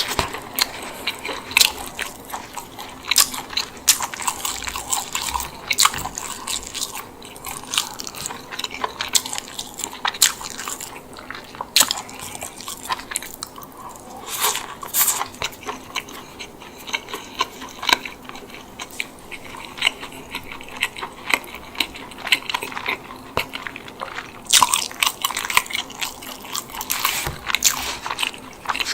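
Close-miked eating of a chicken bake, a bread roll filled with herb chicken and mozzarella: chewing with many small wet mouth clicks, and louder clusters of biting about twelve, fifteen and twenty-five seconds in.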